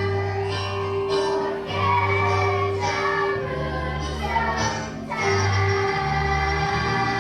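Children's choir singing over an instrumental accompaniment with a bass line and a held steady note.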